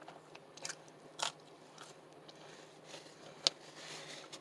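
A person chewing and biting food close to the microphone, with a few short sharp mouth clicks: two near the start and a louder one past the middle.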